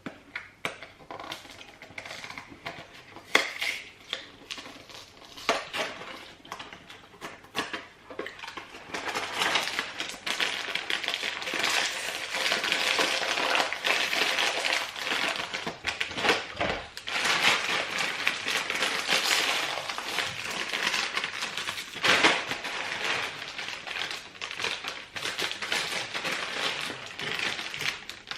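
Crunchy cassava-flour crackers being handled with scattered clicks and rattles, then chewed steadily from about nine seconds in, a dense crackly crunching close to the microphone.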